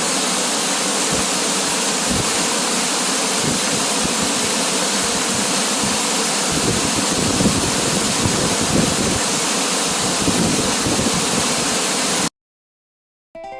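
Waterfall rushing steadily, an even hiss of falling water that cuts off suddenly near the end.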